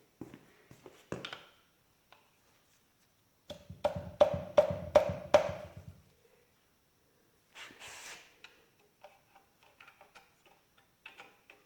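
Metal tools working on a stuck part of a John Deere 4020 engine block as it is pried loose: light clicks, then a run of about six sharp ringing metal strikes, about three a second, a few seconds in, then a short scrape and a few more light clicks.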